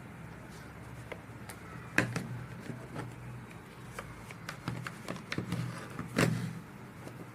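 Irregular clicks and knocks of objects being handled, the sharpest about two seconds in and a louder one near the end, over a steady low hum.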